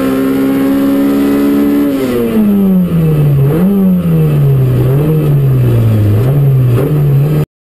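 Peugeot 205 Rallye's four-cylinder rally engine heard from inside the cabin, held at high revs and slowly climbing, then dropping off about two seconds in as the throttle is lifted, with a few small rises and falls in revs. The sound cuts off suddenly near the end.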